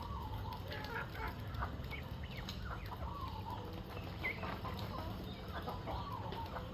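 A flock of chickens clucking, many short calls overlapping, over a steady low rumble.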